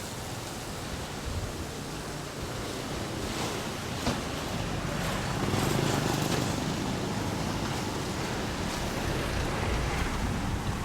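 Steady rushing outdoor noise, with a low rumble that swells around the middle and a single faint click a few seconds in.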